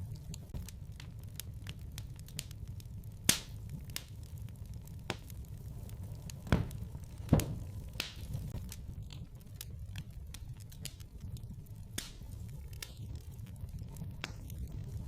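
Fire crackling in a fireplace: scattered sharp pops and snaps, a few louder ones with two close together near the middle, over a low steady rumble of the flames.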